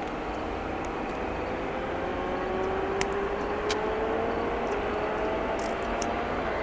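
Airbus A319's CFM56 turbofan engines on landing approach: a steady jet drone with whining tones slowly rising in pitch, growing a little louder as the plane nears. Two sharp ticks about three and three and a half seconds in.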